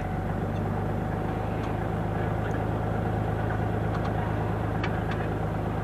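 An engine idling steadily with an even low hum, with a few light clicks and taps on top.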